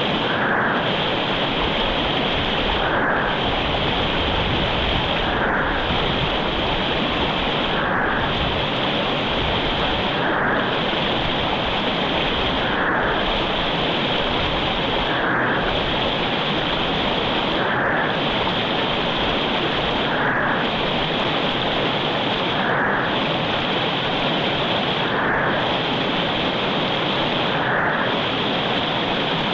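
Mountain river running, a steady rush of water. The hiss dips slightly in a regular pulse about every two and a half seconds.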